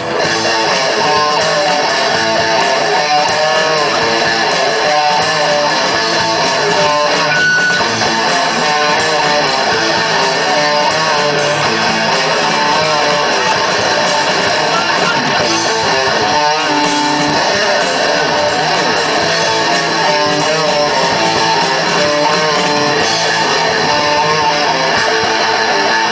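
Live rock band playing an instrumental passage led by strummed guitar, loud and continuous with no singing.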